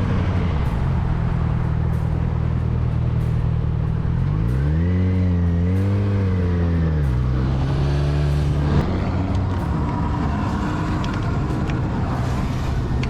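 Vehicle engine running over steady road noise. About halfway through, the engine pitch rises and falls, then drops in two steps.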